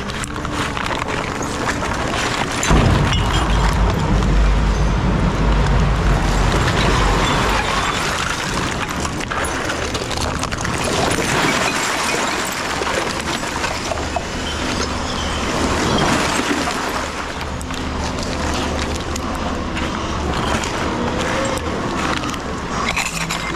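Tipper lorry's diesel engine running while the trailer tips its load, with a deep rumble that swells for a few seconds near the start.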